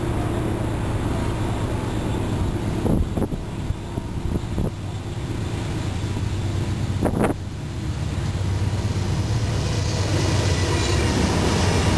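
An approaching Norfolk Southern freight train led by a GE Dash 9-40CW diesel locomotive: a low engine drone that grows louder as the train draws near, with the hiss of wheels on rail building in near the end. A few sharp knocks come in the first seven seconds.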